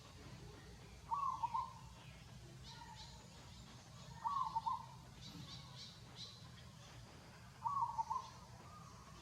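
A bird calling three times, about three seconds apart, each call short and mid-pitched, with fainter high chirps between them.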